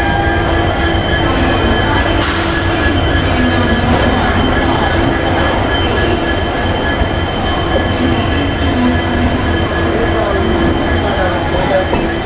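Passenger train pulling out of a station, heard from an open door of a moving coach: a steady rumble of wheels on rail with a thin steady whine above it. A short burst of hiss comes about two seconds in.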